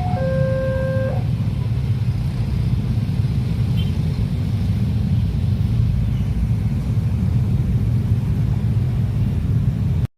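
Railway level-crossing warning alarm sounding its alternating two-tone chime for about the first second, then a steady low rumble of a train passing over the crossing. The sound cuts off abruptly near the end.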